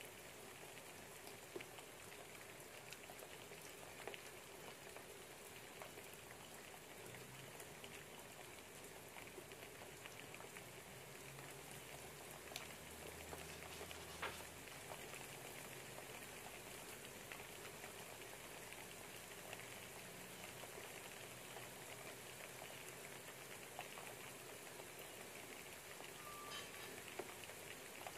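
Faint, steady afternoon rain pattering outside a window, with a few soft ticks through it. A book page is turned about halfway through.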